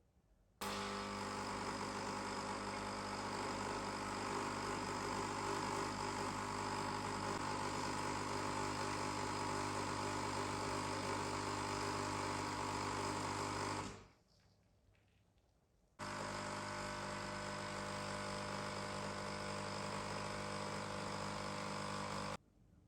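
A steady machine hum with a constant pitch, running about thirteen seconds, cutting off abruptly, then starting again for about six seconds.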